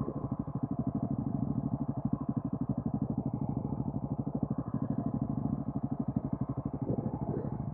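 Wind and road noise at about 75 mph on an action camera's built-in microphone: a muffled low rumble that pulses rapidly and steadily as the wind buffets the mic.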